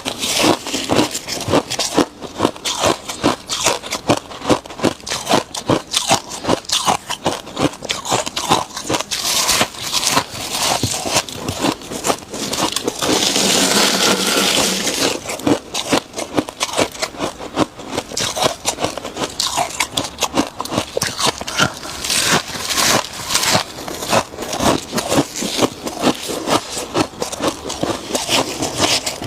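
Close-miked chewing of freezer frost: rapid, irregular crunches throughout. About halfway through there is a steadier scraping hiss lasting about two seconds.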